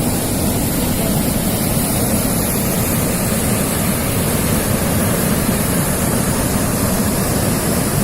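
Steady, loud rushing noise of wind on the microphone and sea waves, with no break or change.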